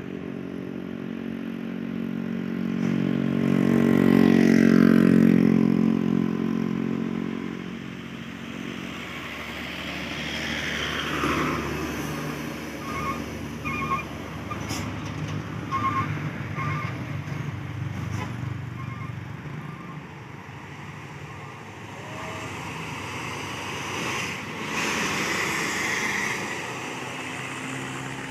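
Road traffic on a steep climb: a heavy vehicle's engine labouring in a low gear passes close, loudest about four to six seconds in, then further vehicles follow. A few short high beeps sound near the middle.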